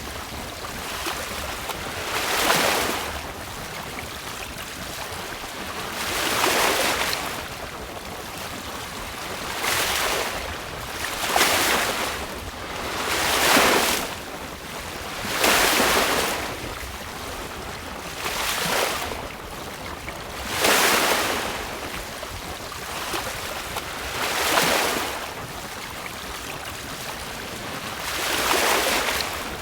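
Sailboat hull moving through choppy sea, with waves rushing and splashing along the side about every two seconds, each swelling up and falling away, over a steady low wind rumble on the microphone.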